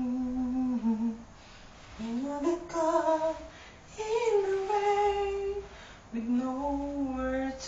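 A woman's voice humming a slow unaccompanied melody: four held notes with short breaks between them, some sliding up or down in pitch.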